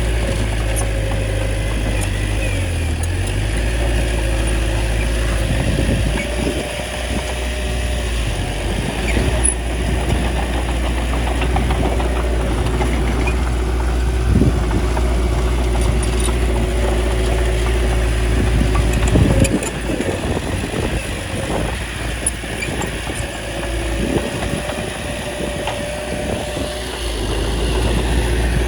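Small crawler bulldozer's diesel engine running steadily, with a faint whine and scattered knocks through it.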